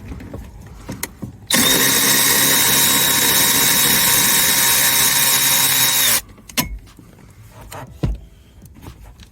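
Power drill running steadily for about four and a half seconds to back out a panel bolt, then stopping, with a few light clicks of handling before and after.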